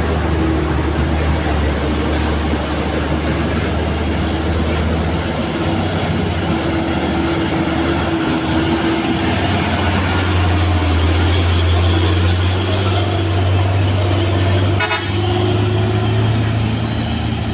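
Truck engine running steadily with a low, continuous drone and a held mid-pitched tone above it. There is a brief click about fifteen seconds in.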